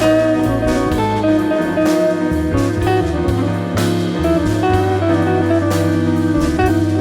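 Band music with an electric guitar leading over bass notes and drums.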